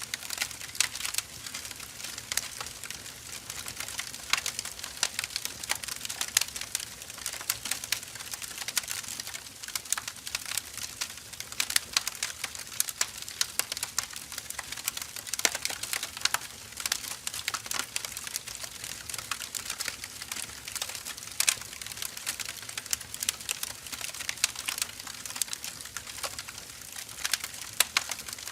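Firewood burning: a steady hiss of flames with constant irregular crackling and sharp pops from the burning logs.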